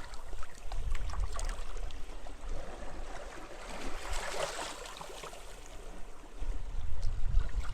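Sea waves lapping and washing onto a beach with small splashes throughout; one wave swells into a hiss about four seconds in. Gusts of wind rumble on the microphone near the start and again near the end.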